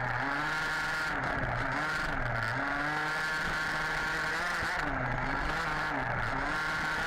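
HPI Baja 5B 1/5-scale RC buggy's small two-stroke petrol engine, heard from on board, revving up and down again and again as the throttle is opened and closed.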